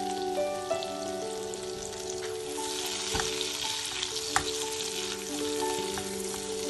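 Butter and finely chopped garlic sizzling as they fry in a non-stick pan, stirred with a spatula that knocks sharply against the pan twice midway. Soft background music with held notes plays underneath.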